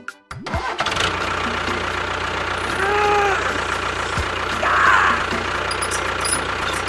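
Small motor of a DIY mini tractor running steadily, taking over as music cuts out in the first half second. A short rising-and-falling tone sounds about three seconds in.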